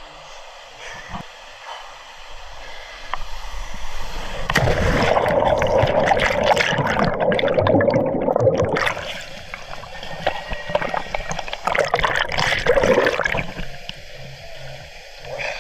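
Water sloshing and splashing, loudest in two spells: from about four to nine seconds in, and again around twelve to thirteen seconds.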